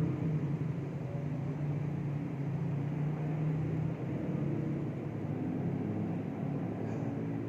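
Steady low rumble with a faint hum, unchanging throughout, with no distinct events.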